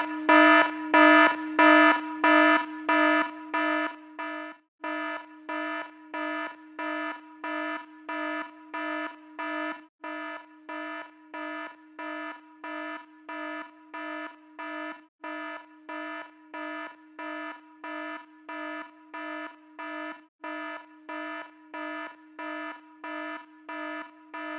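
Electronic alarm beeping steadily, about two beeps a second, loud for the first few seconds and then quieter.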